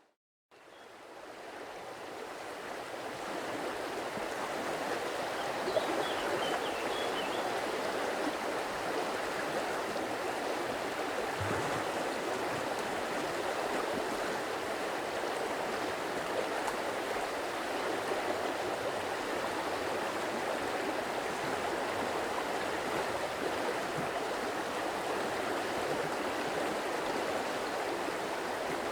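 Flowing water of a stream, a steady rushing and babbling. It cuts out for a moment at the very start and fades back up over the first few seconds.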